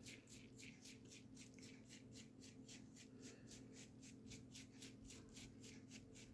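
Faint, quick scratchy flicks of a thumb across an old toothbrush's bristles, about five a second, spattering white gouache.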